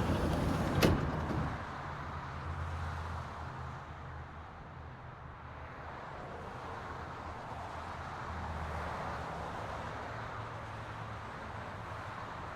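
Metro train running between stations: a steady low hum with a few humming tones from the motors and wheels. A louder rush and a sharp click come about a second in.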